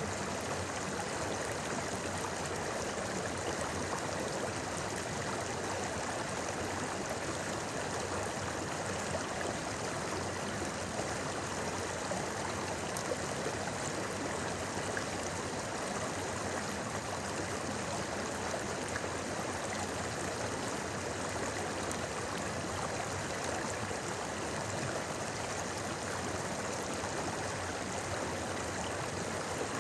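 Shallow river babbling and gurgling over rocks, a steady rushing flow.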